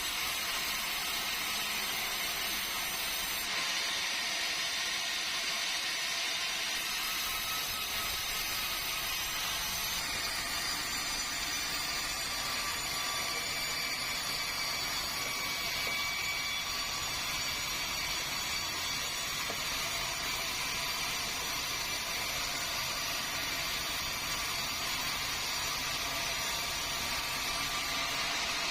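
Sawmill saw running steadily while sawing meranti timber: a continuous rush of noise with several steady high whining tones, whose pitch pattern shifts about ten seconds in.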